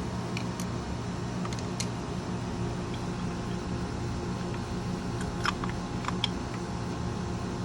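Scattered light clicks and taps of hand tools and small metal carburetor parts being handled, a few close together about five and a half to six and a half seconds in, over a steady low hum.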